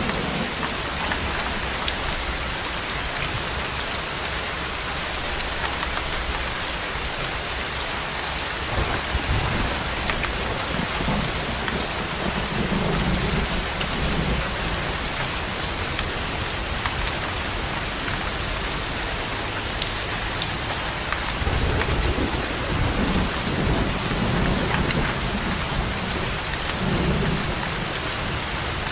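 Steady rain falling, with low rumbles of thunder rolling in several times: briefly near the start, then longer from about two-thirds of the way through.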